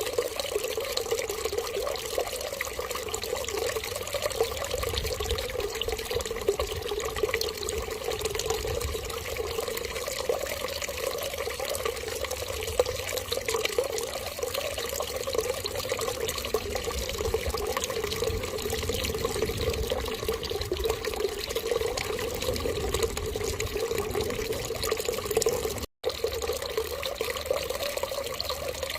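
Steady, continuous running water, with a split-second dropout near the end.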